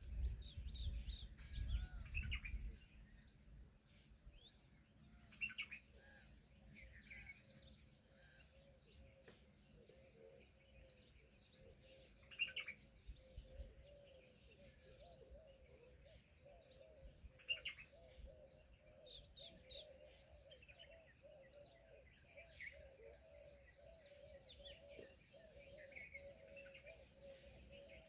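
Small birds chirping, with short calls scattered throughout. There is a faint wavering note underneath in the second half, and a low rumble in the first few seconds.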